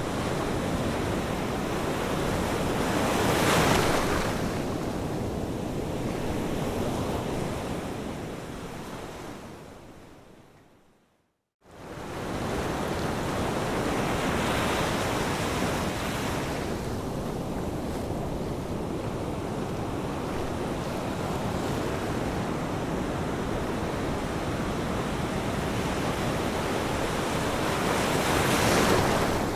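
Ocean waves washing onto a shore, a steady rushing surf that swells as a wave breaks about three seconds in and again near the end. About ten seconds in the sound fades out to a moment of silence, then comes straight back, like a loop seam in the recording.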